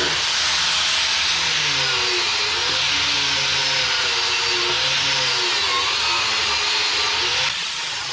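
Power tool with a wire wheel scrubbing rust and dirt off worn excavator bucket shanks and teeth as prep for welding. It makes a steady gritty whir, with the motor pitch wavering up and down as the wheel is pressed in. The whir drops away near the end.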